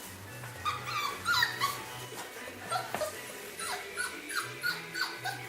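Four-week-old bearded collie puppies whimpering and yipping in many short, high squeals that fall in pitch, over background music.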